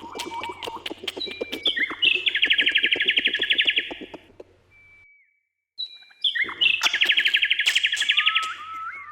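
Birdsong: a loud, rapid trill of quickly repeated high notes lasting about two seconds, heard twice with a moment of complete silence between, among shorter whistled notes and sharp clicks.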